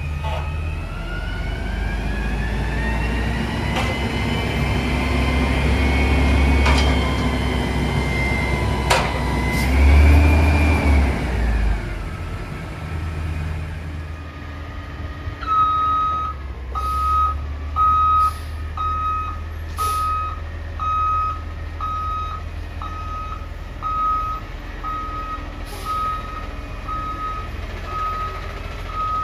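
Peterbilt 320 front-loader garbage truck's engine revving up and holding high for several seconds, then dropping back to idle. About halfway through, the truck's reverse alarm starts beeping steadily, about once a second.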